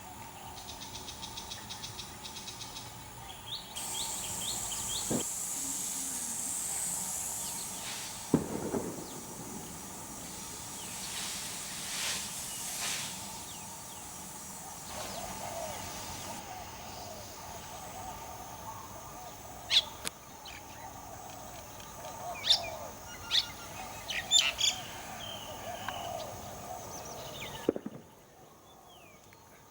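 Small birds chirping and calling, with a cluster of short sharp chirps in the second half, over a steady background hiss.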